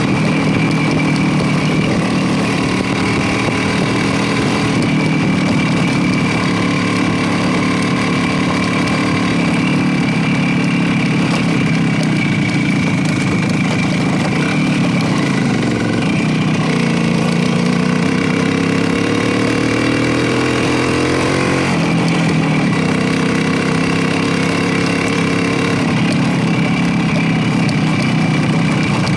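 Motorcycle engine running steadily while riding. A little past the middle its pitch rises for several seconds as it revs up, then drops suddenly, as at a gear change or closing the throttle.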